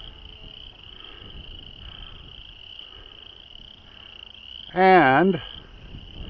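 Steady high-pitched chorus of calling frogs, unbroken throughout, over a faint low wind rumble.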